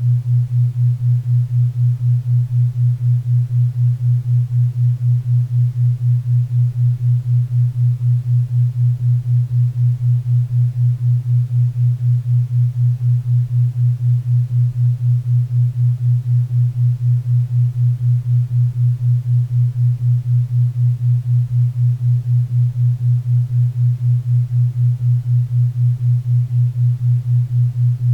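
Synthetic 4 Hz theta-wave entrainment tone: a steady low hum pulsing evenly about four times a second, with a faint hiss of pink and brown noise underneath.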